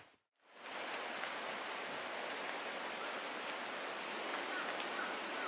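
Steady rain falling in a forest: a continuous even hiss that drops out briefly just after the start and fades back in.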